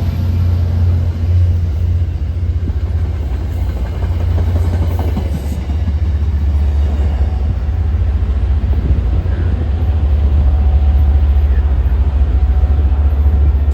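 Train going by with a steady, loud deep drone of its diesel locomotive engine and a rumble of wheels on the rails.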